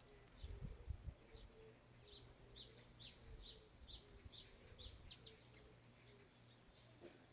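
A small songbird singing a quick series of high, downward-sliding notes, about three a second, for around three seconds, with fainter scattered chirps before and after. A few dull low thumps sound about a second in.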